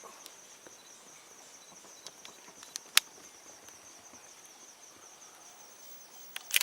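Insects chirring steadily at a high pitch in the bush, with a few sharp clicks: one loud click about three seconds in and a short cluster near the end.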